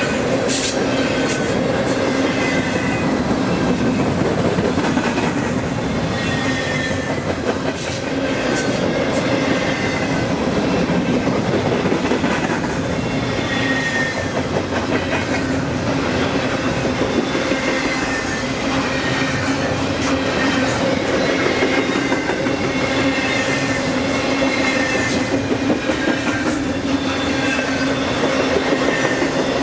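A train rolling past on the track: a steady, loud rumble of wheels on rail with a low hum, repeated clicks of wheels over rail joints, and faint high wheel squeals.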